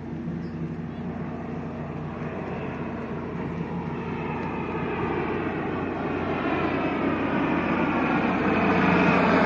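Four-engine turboprop of a P-3C Orion patrol aircraft approaching, its drone growing steadily louder.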